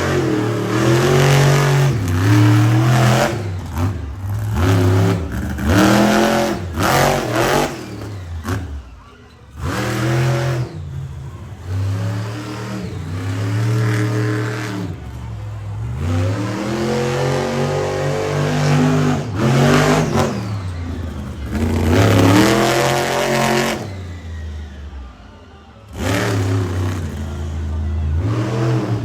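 Monster truck engine revving hard and repeatedly, its pitch climbing and falling with each burst of throttle. The engine briefly drops off twice, about nine seconds in and again near the end, before revving back up.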